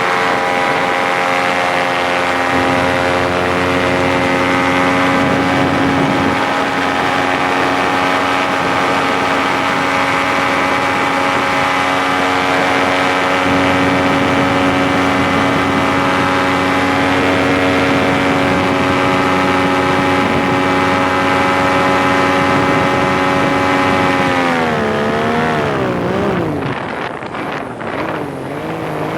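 Paramotor's small two-stroke engine and propeller running steadily at high power. Near the end the engine pitch falls and wavers for a few seconds, then climbs again.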